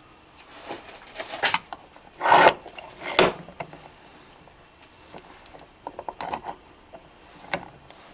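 Metal tools and parts being handled on a workbench: short scrapes and rattles, the loudest a scrape about two seconds in followed by a sharp knock, then a run of small clicks later on.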